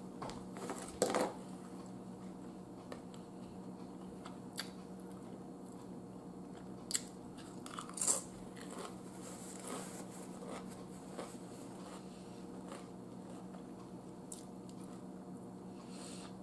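Someone chewing and crunching Lay's potato chips with her mouth close to the microphone: a few sharp crunches about a second in and again around seven to eight seconds in, with quieter chewing between, over a steady low hum.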